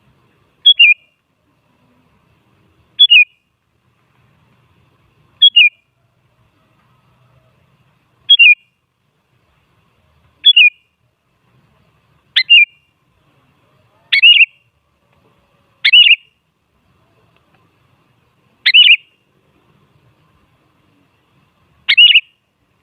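Sooty-headed bulbul (kutilang) giving ten short, sharp calls spaced two to three seconds apart, each a quick falling note, a little fuller from about halfway through. This is a kutilang lure call (pancingan), meant to provoke another kutilang into answering.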